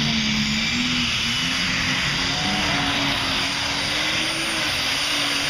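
Alcohol-burning New Holland pulling tractor's engine running at high revs under load during a pull, its pitch climbing with repeated small surges. The revs pick up as the front end rears high and the tyres lose traction.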